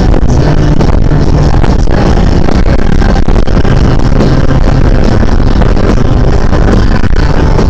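Loud, steady wind rush and rumble on a body-worn camera microphone while riding an e-bike, with no let-up.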